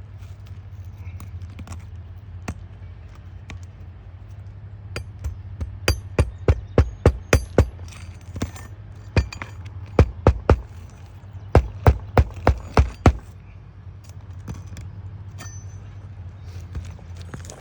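Hammer blows driving roofing nails to fasten a replacement asphalt shingle: a few single strikes, then quick runs of about three blows a second in several groups, over a steady low hum.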